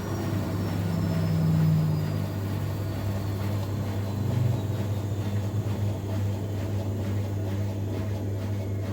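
Miele Professional PW 6065 Vario washing machine winding down from its 1200 rpm final spin: a steady low hum from the motor and drum, with a high whine falling steadily in pitch as the drum slows.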